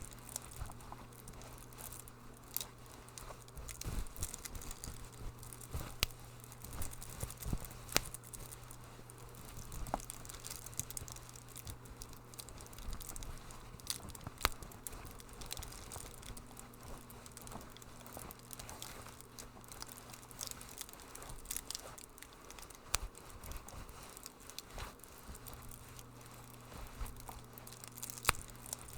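Wood fire in a fireplace crackling, with irregular sharp pops over a steady low hum.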